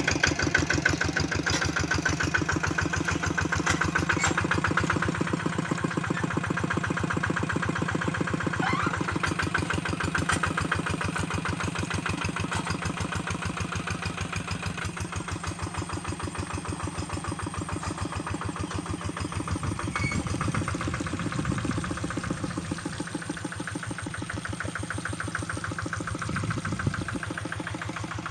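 Engine of a hand tractor plowing a rice paddy, running steadily with rapid, even firing pulses.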